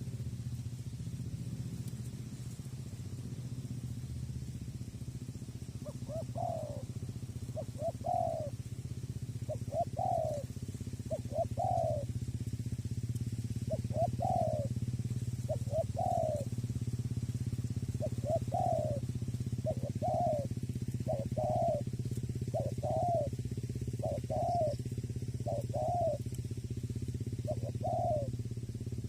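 Spotted dove (tekukur) cooing: short coo notes repeated in quick pairs and phrases, starting about six seconds in, over a steady low rumble.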